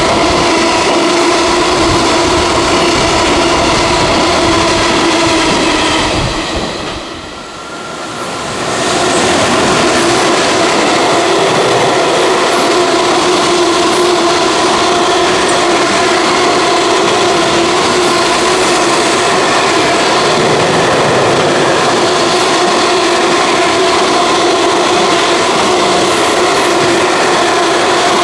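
Freight train running past at speed: a continuous rolling rumble of wagon wheels on the rails with clickety-clack and a steady ringing hum, dipping briefly about seven seconds in before coming back at full level.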